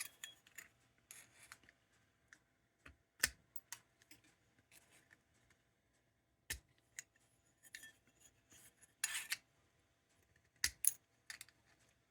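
Snips cutting the sheet-metal cone of a lantern burner: scattered sharp snips and clicks, with a few brief scraping strokes.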